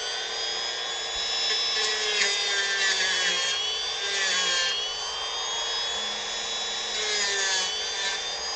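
Dremel rotary tool running at high speed with a steady high whine, grinding into wood. Its pitch dips with grinding scrapes when it is pressed into the wood, around two to five seconds in and again near the end.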